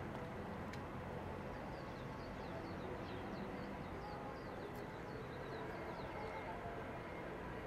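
Small birds chirping in quick, short high notes through most of the stretch, stopping near the end, over a steady low outdoor rumble.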